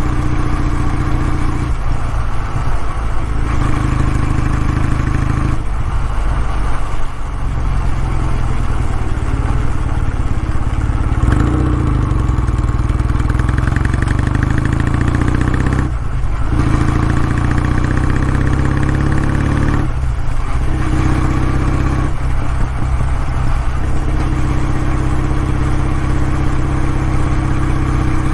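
Kawasaki W650's air-cooled parallel-twin engine running through its exhaust. The steady exhaust note breaks off briefly about five times, and its pitch rises around the middle.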